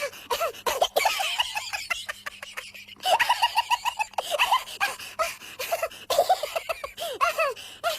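Human laughter: bouts of quick, rhythmic 'ha-ha' pulses, with a fresh burst starting about three seconds in.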